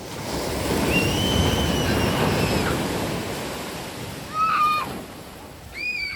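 A sea wave breaking and washing up the beach, swelling over the first second and then fading away. Three short high-pitched cries sound over it: a long one about a second in, one after about four seconds, and one near the end.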